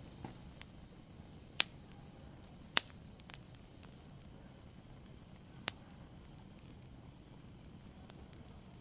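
Wood fire burning in a fireplace with a low hiss and sparse sharp crackles and pops, three loud ones at about one and a half, three and six seconds in.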